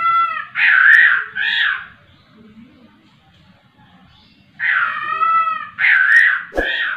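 Caged poksay rowo calling loudly in two bouts about five seconds apart, each a drawn-out ringing note with several overtones followed by two shorter wavering notes. A short low knock comes near the end of the second bout.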